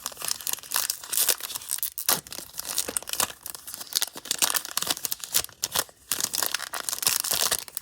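Plastic wrapper of a trading-card pack being torn open and crinkled by hand: a dense, irregular crackling that stops abruptly at the end.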